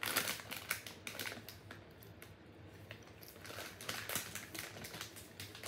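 Chewing of a sugar-coated citrus gummy candy close to the microphone: irregular soft mouth clicks, busiest near the start and again about four seconds in.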